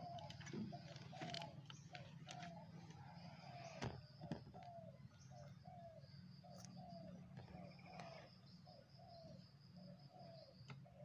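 A bird calling a steady run of short notes that each fall in pitch, about three every two seconds, over a faint steady high whine, with a couple of soft clicks.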